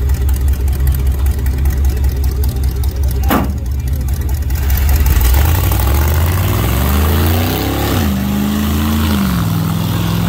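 Monster truck engine running with a deep, pulsing rumble, then revving up in pitch about halfway through and dropping back down in two steps. A single sharp knock sounds a little over three seconds in.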